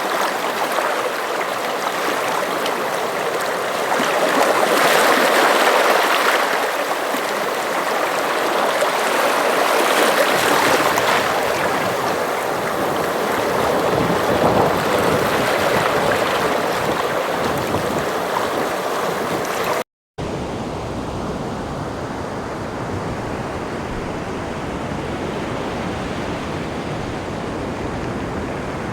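Sea waves washing in, surging and easing every few seconds. About two-thirds of the way in the sound drops out for an instant and gives way to a steadier, duller wash of surf.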